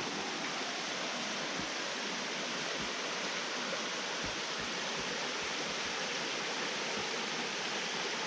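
A stream flowing with a steady rush of water, with faint low thumps now and then.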